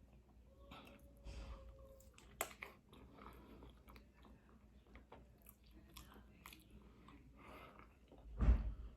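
Close-miked chewing and biting of seafood-boil food, with wet smacking clicks. A dull low thump sounds near the end.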